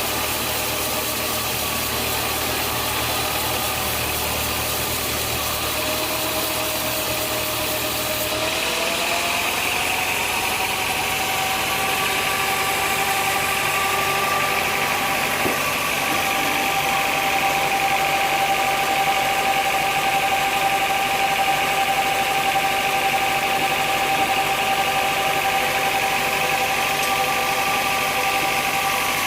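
Sawmill machinery running steadily with a motor hum. About eight or nine seconds in, the sound shifts and its pitch rises slightly, then holds.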